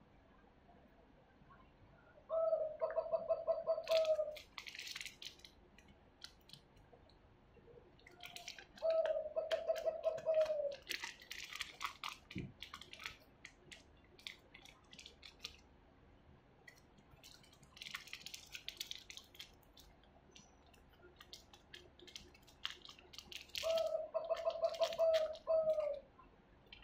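A bird calls three times, each call a single held, slightly buzzy note of a second or two. Between the calls is the crinkle and click of clear plastic packaging being handled and cut.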